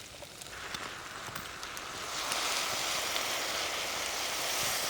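Teriyaki sauce sizzling and bubbling as it reduces in a pan over a campfire, a steady hiss that builds and gets louder about two seconds in.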